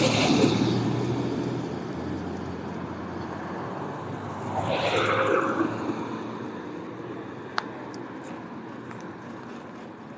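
City street traffic: cars passing, one swelling up and fading about halfway through over a steady background of engine hum and tyre noise, with a sharp click near the end.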